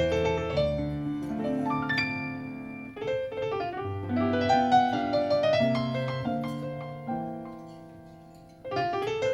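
Solo piano music played back through a car's custom audio system and recorded inside the cabin. Chords and melody notes ring out, fading down late on before a new phrase starts just before the end.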